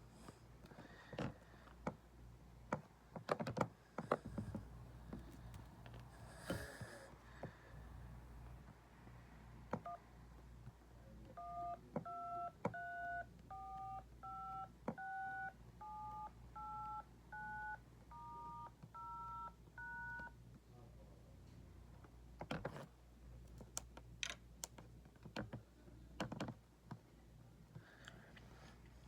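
iPhone 6s Plus dial keypad playing touch-tone (DTMF) beeps: one short tone, then twelve tones in a steady run that step through the keys in order, 1 to 9, star, 0 and pound. Sharp clicks and taps come before and after the tones.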